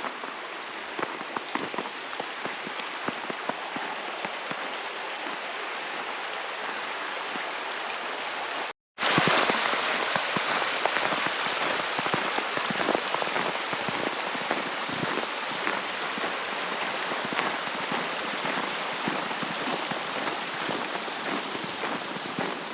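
Steady patter of falling precipitation, a dense hiss full of small irregular drop ticks. It cuts out for a moment about nine seconds in and comes back a little louder.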